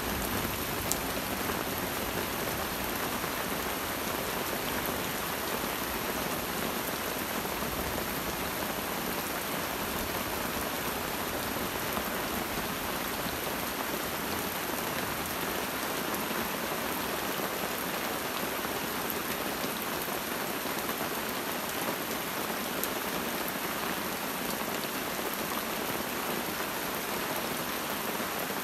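Steady, even rain falling through the forest.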